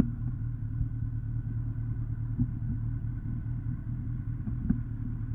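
A steady low engine rumble, like an engine idling, with a couple of faint clicks.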